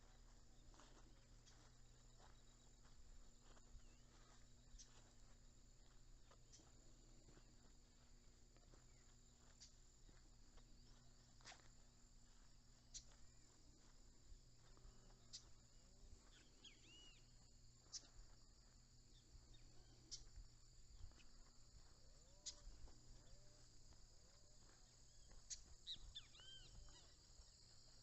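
Faint forest ambience at dawn: crickets and other insects keep up a steady high trill. Sharp single calls come every two or three seconds, and short chirping bird notes join in the second half.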